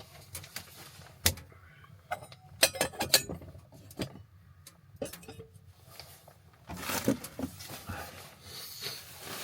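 Scattered clinks and knocks of small hard objects being handled, like dishes and utensils, with a quick cluster of them about three seconds in.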